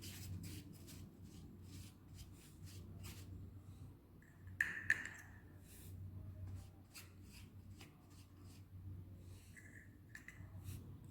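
Faint scratchy strokes of a paintbrush working paint onto a cardboard roll, over a low steady hum, with one brief louder squeak-like sound about five seconds in.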